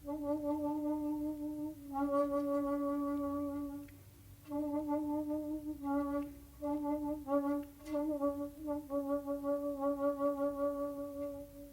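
Solo shakuhachi, the end-blown bamboo flute, playing long low held notes in phrases. The phrases break off in short pauses about two and four seconds in, with quick note changes and small pitch shifts between the held tones.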